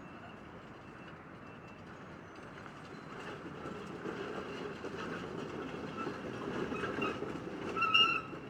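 Heavy demolition equipment working on rubble, a steady mechanical rumble that grows louder about three seconds in. A short, high metallic squeal comes near the end.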